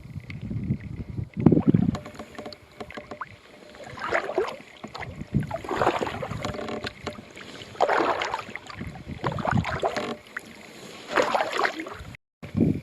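Kayak paddle strokes dipping and splashing in the water, a stroke about every two seconds.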